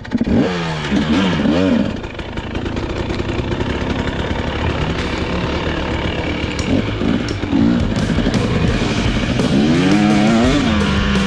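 2023 KTM 300SX's single-cylinder two-stroke engine under riding load, revving up and dropping back several times as the throttle is worked, then holding a steadier pitch near the end, over a steady rush of noise.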